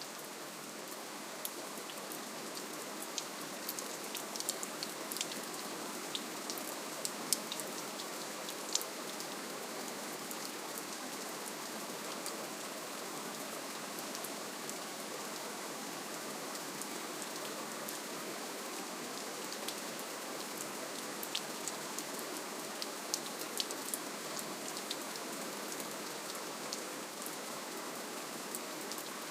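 Steady, gentle rainfall: an even hiss with scattered sharp drips and patters, more of them a few seconds in and again past twenty seconds.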